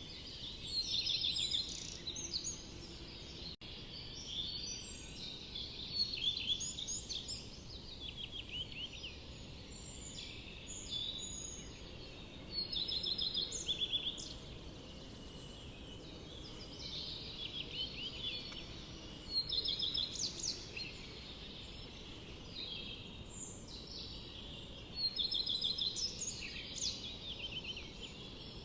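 Forest birds singing: a high, rapid song phrase of quick repeated notes comes every five to seven seconds, with quieter chirps between and a steady low background hiss.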